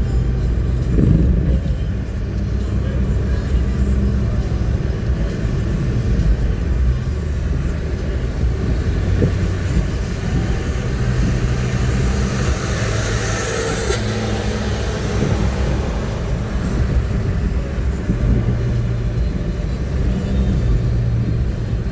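Car driving in the rain, heard from inside the cabin: a steady low engine and road rumble, with a rushing hiss of tyres on the wet road swelling for a couple of seconds about halfway through.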